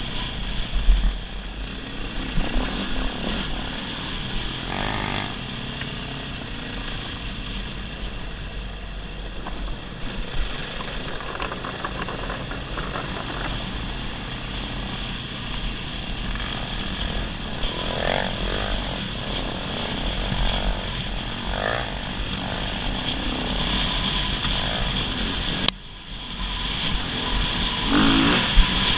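Dirt bike engine running steadily while riding a trail, with a few brief swells in engine pitch and a short sudden dropout near the end.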